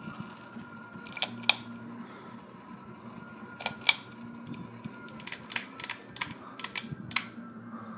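A 42-inch Harbor Breeze Cheshire ceiling fan with a faint steady hum, and about ten sharp mechanical clicks in small groups over it.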